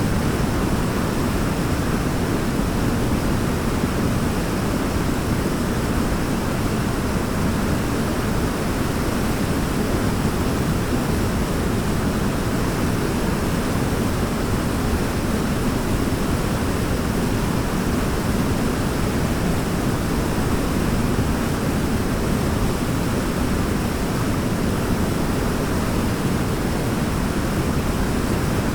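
Waterfall rushing steadily, a constant deep roar of falling water with no changes.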